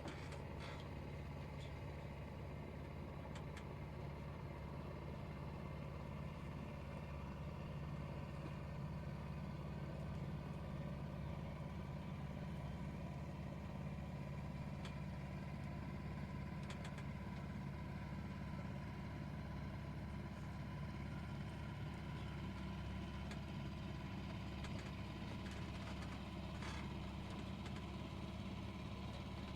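An engine running steadily at an even speed, with a low, unchanging hum.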